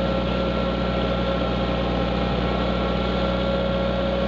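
Kubota tractor's diesel engine running steadily at a constant low speed, with a steady hum.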